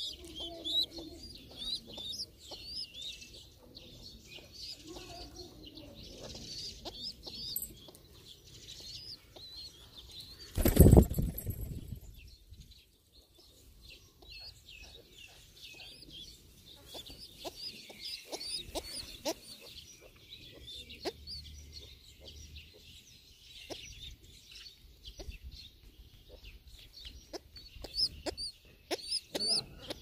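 Birds calling: many short, high chirps throughout, with some lower calls in the first few seconds. One loud rustling thump about eleven seconds in.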